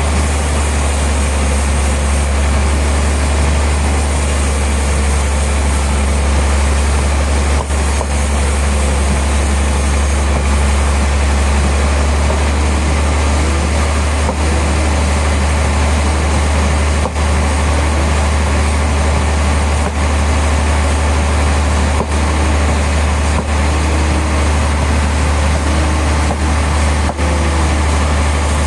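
Sawmill machinery running steadily, a loud constant low hum under a noisy mechanical haze, with a few brief dips.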